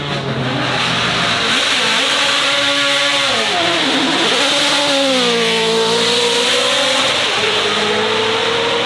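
Performance car engine revving hard, its pitch dipping sharply about four seconds in and then climbing again, over a loud rushing noise.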